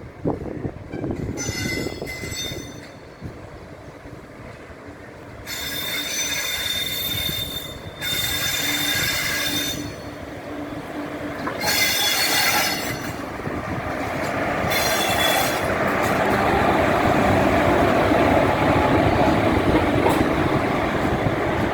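Electric locomotive's wheels squealing in about five high-pitched bursts, each one to two seconds long, as it rolls slowly along the track. After that a steady rolling rumble builds and is loudest near the end.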